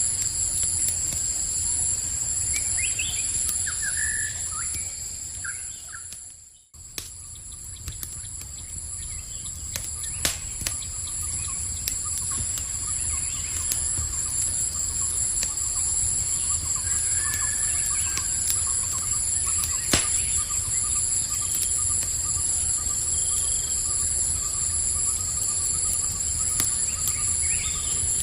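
Night-time campfire ambience: a steady high chorus of insects, sparse sharp crackles from the fire and a few short bird chirps. The whole sound briefly fades out and comes back about seven seconds in.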